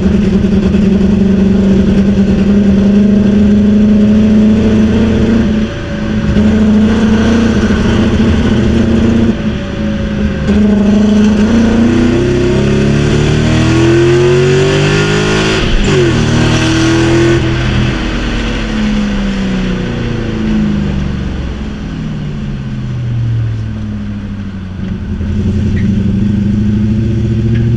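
BMW M60B40 4.0-litre V8 heard from inside the E36's cabin while driving, holding steady revs for about ten seconds with brief dips around six and ten seconds in, then its pitch rising and falling through the middle before settling to a steady run near the end. The engine has been losing revs and stalling under throttle, and the owner suspects one cylinder is not firing.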